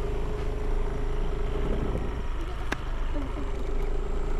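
Motorcycle engine running steadily with a low, even hum, and one sharp click a little past halfway.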